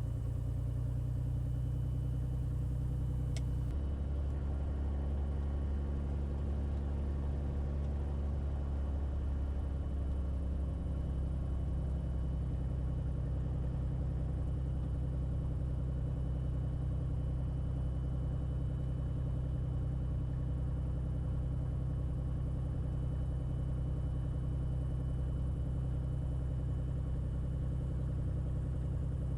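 Beechcraft A36 Bonanza's six-cylinder piston engine running steadily at low taxi power. There is a brief click about three and a half seconds in, and the engine note shifts slightly after it.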